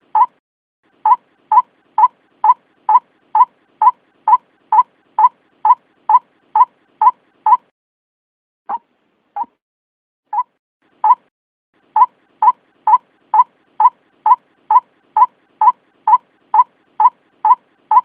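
White-breasted waterhen (ruak-ruak) calling: a rapid series of short, identical notes about twice a second. The series stops about seven seconds in, resumes after a pause with a few slower, spaced notes, then picks back up to the fast run.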